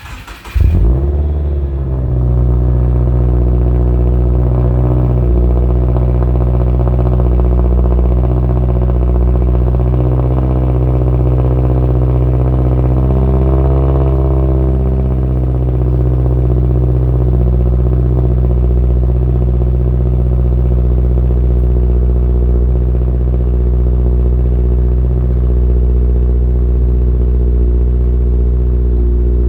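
2015 Subaru Impreza 2.0i's naturally aspirated flat-four engine cranking and catching within about a second on a cold start, then running at a loud, steady idle through a Subaru Performance Tuning cat-back exhaust. The idle pitch rises and dips slightly midway.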